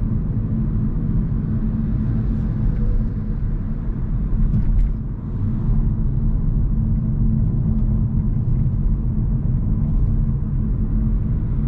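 Hyundai Kona Hybrid on the move: a steady, loud low rumble of road and tyre noise with a faint constant hum, dipping briefly about five seconds in.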